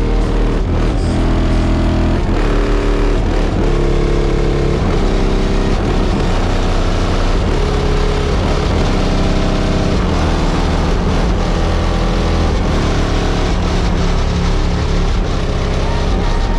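Loud bass-heavy rap music played through a car audio system's two Resilient Sounds Platinum 15-inch subwoofers on a Wolfram 9K amplifier, deep bass notes changing about every second, with the car's trunk and body buzzing along under the bass.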